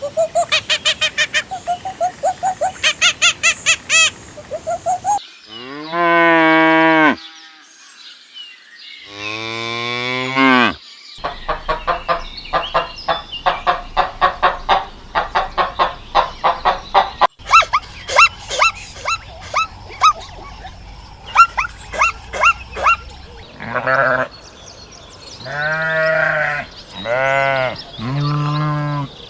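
A sequence of farm animal calls: stretches of fast, short repeated calls alternate with longer drawn-out calls, like lowing or bleating, four of which come near the end.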